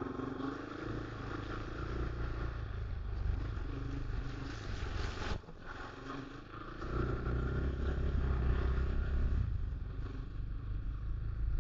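Dirt bike engine running at low revs, briefly dropping off about halfway through, then pulling harder again.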